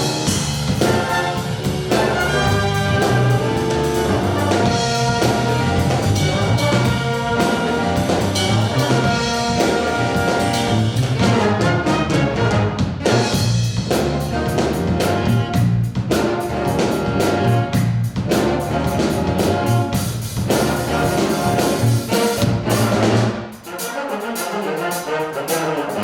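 School jazz stage band playing a funk big-band chart, trumpets and trombones over bass and drums. Near the end the bass and drums drop out for about two seconds, leaving the horns alone, before the full band comes back in.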